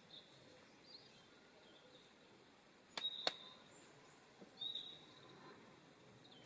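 Faint outdoor background with a few short, high bird chirps, and two sharp clicks close together about three seconds in.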